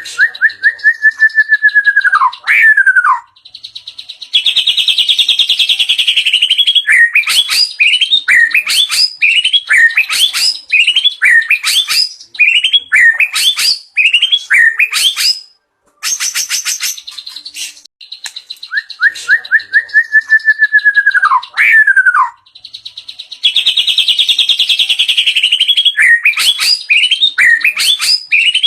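White-rumped shama (murai batu) singing loudly, its song a string of learned mimicry phrases. It opens with a long falling whistle and a rapid buzzy trill, then runs into short rising whistled notes at about one a second. After a brief high, thin passage, the same sequence starts again.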